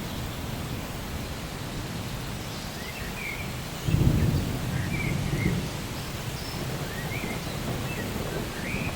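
Steady rain with a low rumble of thunder that starts suddenly about four seconds in and fades over the next second or two. A bird gives short chirps several times over the rain.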